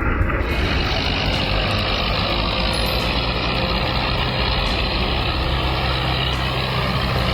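Tractor engine running steadily under load, a dense even rumble.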